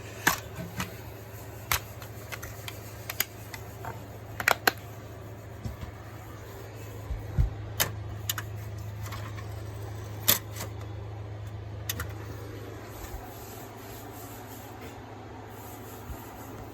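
Steady low hum with scattered sharp clicks and knocks.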